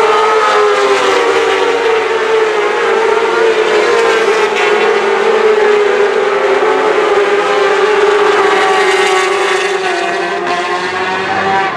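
Superbike racing engines at high revs, one engine's note dominating, its pitch holding high with slight rises and dips.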